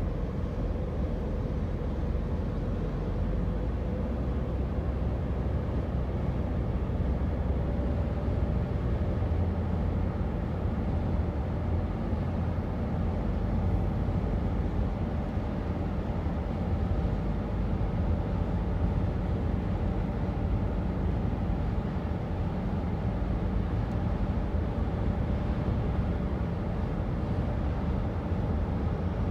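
Truck engine running steadily at cruising speed with road noise: an even low rumble with a faint steady whine over it.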